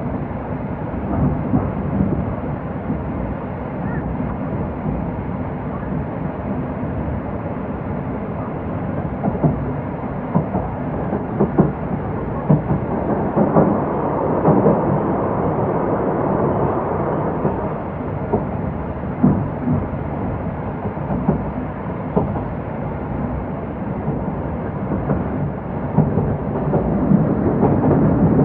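Running noise of an old-type passenger coach hauled by an electric locomotive, heard from inside the coach: a steady rumble of wheels on rail with irregular clacks and knocks. The rumble swells for a few seconds about halfway through and again near the end.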